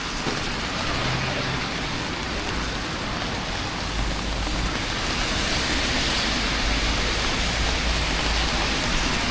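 Steady rain falling on a city street, an even hiss, with a low rumble joining about four seconds in.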